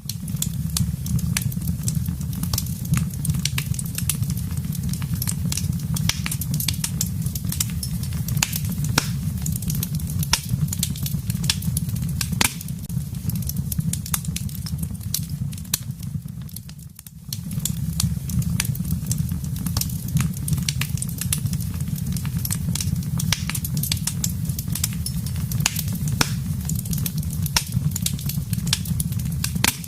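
Wood fire crackling in a fireplace: many sharp pops and snaps over a steady low roar. The sound dips briefly about two-thirds of the way through, then carries on as before.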